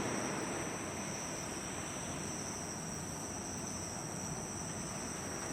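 Insects singing in a steady, unbroken high trill, over a constant rushing background noise.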